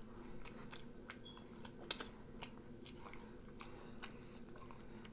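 A man chewing a mouthful of bagel burger: faint, irregular wet mouth clicks and smacks, one a little louder about two seconds in.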